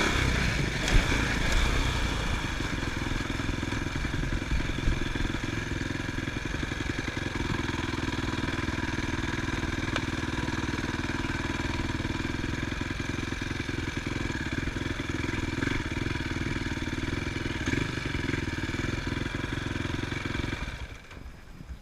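Motocross bike engine running at a steady speed, its pitch unchanging; it drops away sharply near the end.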